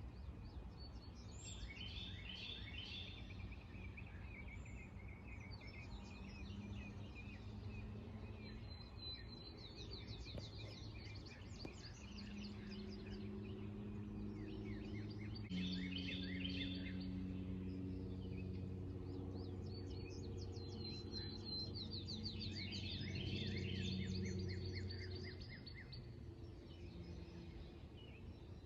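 Songbirds singing in repeated short, quick trills and whistles over a constant low background rumble. A low droning hum with several steady tones sets in a few seconds in, grows to be the loudest sound in the middle, and fades near the end.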